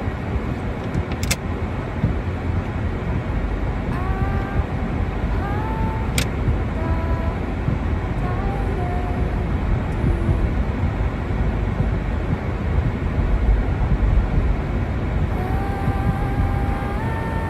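Steady low rumble of snowstorm wind buffeting the microphone, with faint distant voices calling out now and then.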